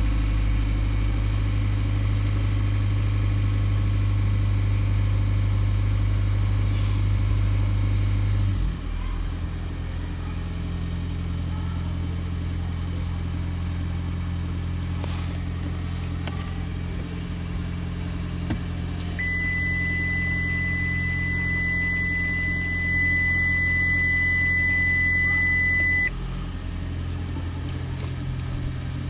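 Steady low drone from a Toyota hybrid car that steps down in level about a third of the way in; about two-thirds in, a steady high-pitched whine sounds for about seven seconds and then cuts off. This is the whining noise the owner is investigating.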